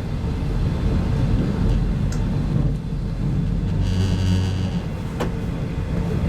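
Cabin rumble of a 25T-series passenger coach running at a little over 100 km/h, wheels rolling on the track. A brief higher whine rises in about four seconds in, and a single sharp click follows about a second later.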